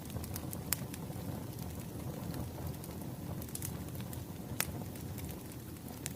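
Wood fire crackling: a steady low rumble with scattered sharp pops, the two loudest near the start and past the middle.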